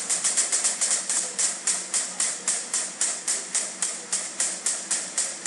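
AR-15 rifle fired in a long, rapid semi-automatic string of shots, about four a second, with the shots coming faster during the first second.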